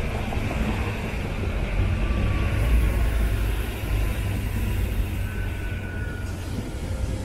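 Trilex Siemens Desiro diesel multiple unit running past on the tracks: a steady low rumble of engines and wheels. A faint high whine comes in around the middle.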